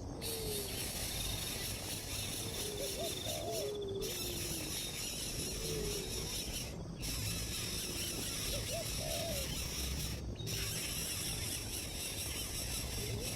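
Short, low, whistled bird calls, rising and falling, in small groups every few seconds over a steady hiss.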